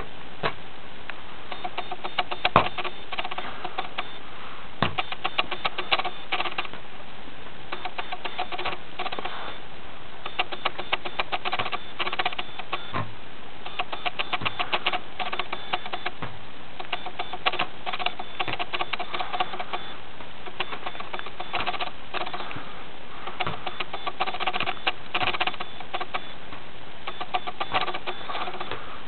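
A rubber balloon being tapped and bounced by hand: bursts of quick light taps, with a few louder single knocks, over a steady hiss.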